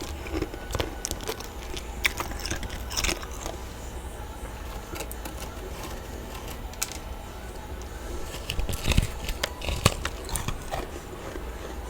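Close-up crunching and biting of freezer frost in the mouth: irregular sharp crunches, sparser in the middle and bunched together near the end, over a steady low hum.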